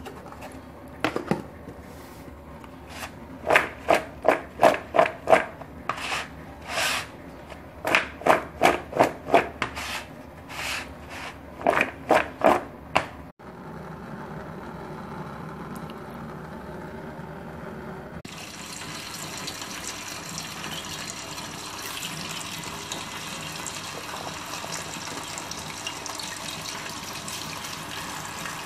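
Raw potato sticks frying in hot oil: a steady, even sizzle that starts suddenly about 18 seconds in. Before it come groups of short, loud bursts, about three a second, and then a few seconds of low steady rush.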